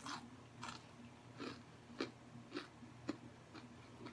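Close-miked chewing of fried food, with short wet mouth sounds coming about twice a second.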